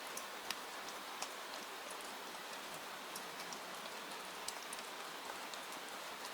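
Steady rain hiss with scattered sharp ticks throughout.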